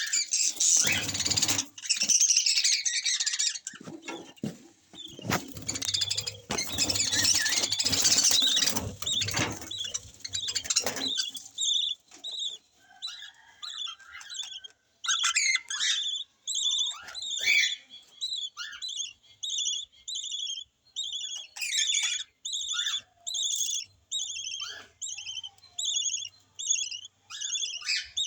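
Lovebirds chattering loudly and densely for the first several seconds. After that comes a steady run of short, evenly repeated chirps, about one or two a second.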